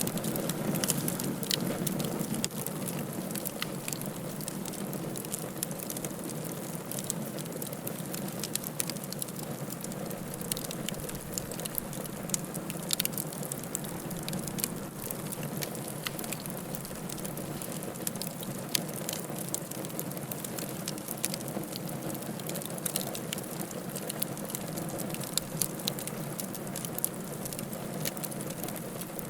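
Wood fire crackling steadily, with irregular sharp pops and snaps over a continuous soft rushing hiss.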